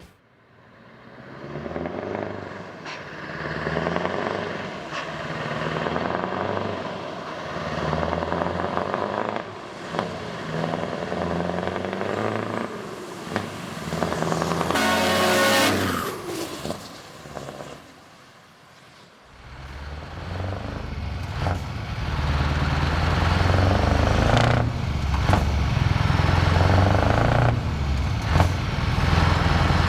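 Scania R 560 truck's V8 diesel engine pulling away and accelerating, its pitch climbing in steps through the gear changes. About halfway through a short, higher-pitched sound stands out. After a brief lull, a truck engine runs loud and low up close.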